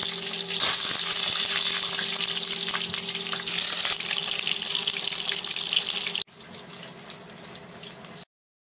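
Whole small brinjals sizzling in hot oil in a kadai: a steady frying hiss with small crackles and a faint steady hum underneath. About six seconds in, the hiss drops abruptly to a quieter sizzle, then cuts out near the end.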